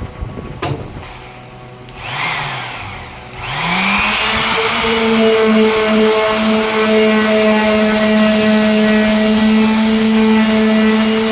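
Electric sander motor briefly spun up and let wind down, then switched on again about three and a half seconds in. It rises in pitch to full speed and runs steadily with a constant whine over a hiss.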